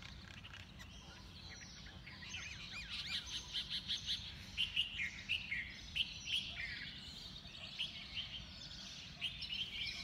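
Several wild birds chirping and calling in quick, repeated high chirps and short trills, thickest from about two seconds in until near the end, over a low steady background noise.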